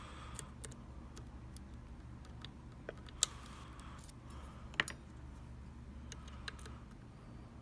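Light, irregular metallic clicks and ticks of a lock pick probing the pins of a Mul-T-Lock MT5 lock under tension, two of them sharper about three and five seconds in, over a low steady hum.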